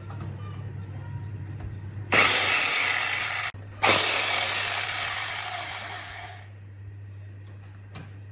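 STIHL electric chainsaw running in two short bursts: it starts suddenly, cuts off, then runs again and winds down.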